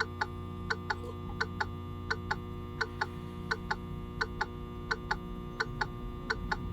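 Hazard-flasher relay in a truck cab clicking in steady pairs, a pair about every 0.7 seconds, over a steady low hum.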